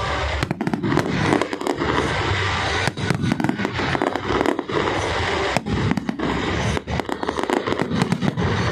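Fireworks display: a rapid, unbroken run of bangs and crackling reports, many overlapping.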